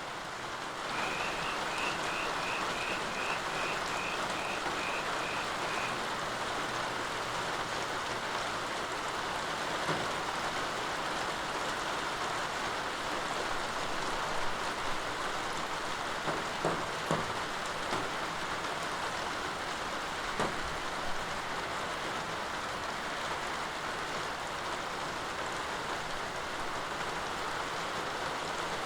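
Steady rain falling, with a few sharper drips or taps in the middle. In the first few seconds there is a quick run of about a dozen short, high, evenly spaced chirps.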